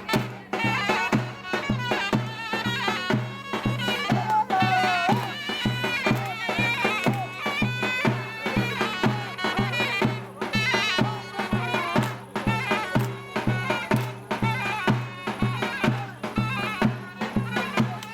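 Traditional Turkish folk dance music: a shrill, wavering reed-pipe melody over a steady drumbeat of about two beats a second.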